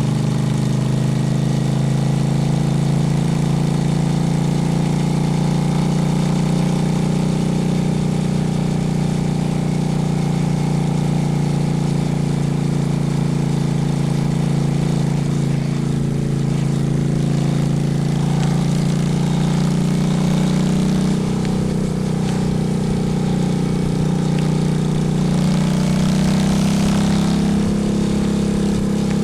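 Honda Shadow's V-twin engine running steadily at low revs with an even pitch that climbs slightly near the end.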